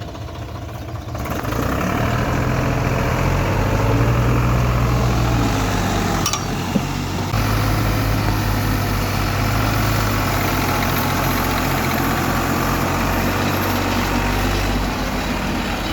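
Diesel tractor engine running under load, its note swelling and easing by turns as the stuck tractor works to pull free of mud. A single short click sounds about seven seconds in.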